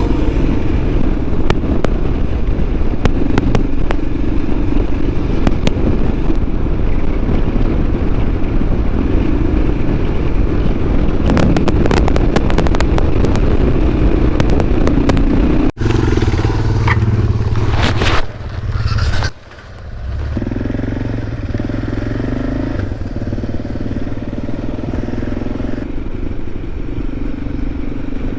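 Motorcycle engine running under way, mixed with loud wind rush. About halfway through the sound changes abruptly and dips briefly, then settles into a steadier engine note.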